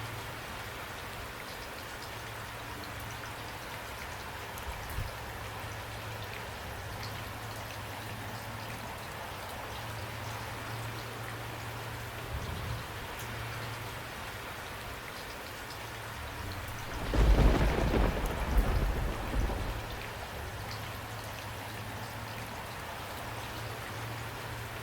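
Steady rain falling and pattering. About two-thirds of the way through, a deep rumble of thunder lasts a couple of seconds and is the loudest sound.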